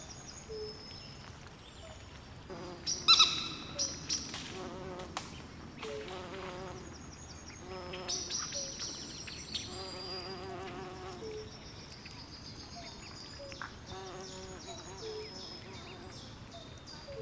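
Night swamp chorus: insects chirping steadily in high repeated notes, frogs calling in short low notes and pulsing trills, and one loud, ringing animal call about 3 seconds in.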